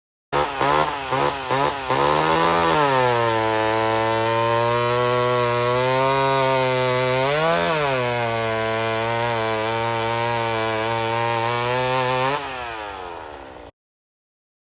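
Vintage two-stroke chainsaw blipped a few times, then held at high speed. Its pitch sags as it bogs into a cut in wood and rises briefly about halfway through. Near the end it drops off and cuts out.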